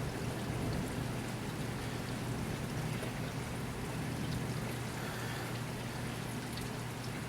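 Heavy thunderstorm rain falling steadily, heard through an open window as an even hiss, with a steady low hum underneath.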